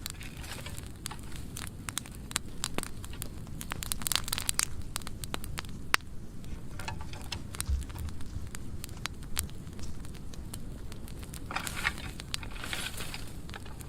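Burn pile of dry pruning wood burning, with many sharp crackles and pops over a low rushing of the flames.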